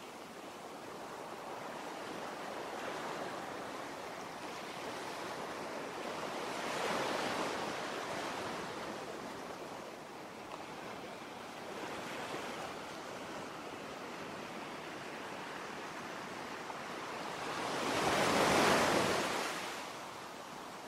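Ocean waves washing in, in slow swells about every five seconds, the loudest one near the end.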